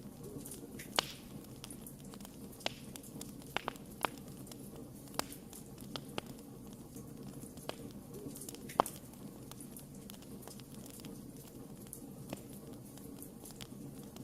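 Wood fire crackling: about a dozen sharp pops at irregular intervals over a steady low hiss and rumble of burning, the loudest pop a little before the nine-second mark.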